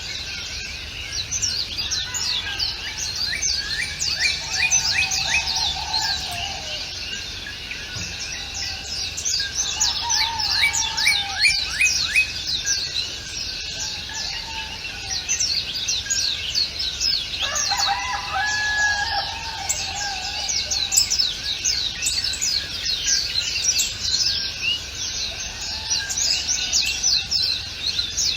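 A chorus of many small birds chirping and singing at once: a dense, unbroken stream of quick high chirps, with a few lower warbling phrases now and then.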